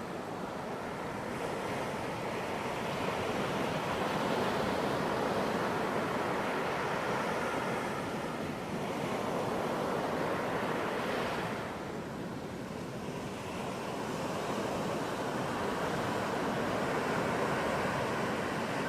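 Ocean surf on a beach: a continuous wash of waves that swells and eases, with one wave surging up a little past halfway through.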